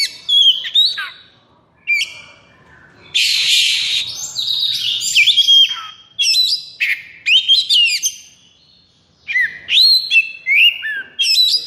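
Oriental magpie-robin (kacer) singing in fast, loud bursts of rising and falling whistled notes, with a harsh rasping passage in the middle and short pauses between phrases. This is the aggressive, highly aroused 'konslet' song of a male kacer.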